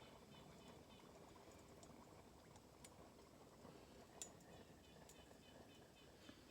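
Near silence: a low hiss with a few faint ticks, and one sharp click at the very end.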